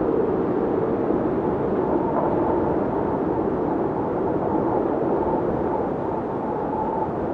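Blizzard wind blowing steadily with a low rushing noise, and a faint whistling howl that comes and goes from about two seconds in.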